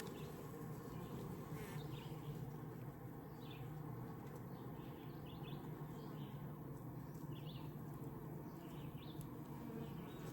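Honeybees humming steadily around an open Layens horizontal hive, a low, even buzz of many bees.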